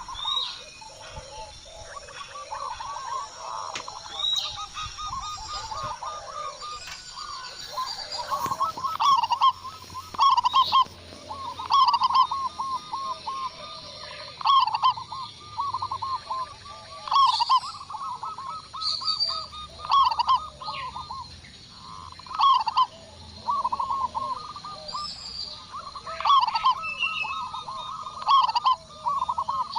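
Zebra doves (perkutut) cooing: rapid rippling, staccato phrases repeated over and over, with short higher chirps from other birds in between.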